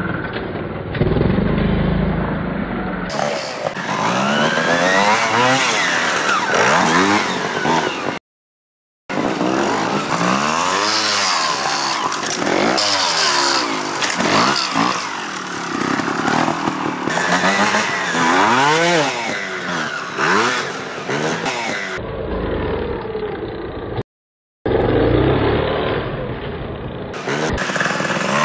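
Trials motorcycle engines revving up and down again and again in short blips and surges, with some clattering, across several joined clips. The sound drops out to silence twice, briefly, about 8 and 24 seconds in.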